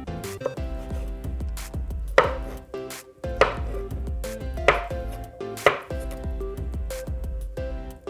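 Knife chopping on a cutting board: four heavy strokes about a second apart, over background music.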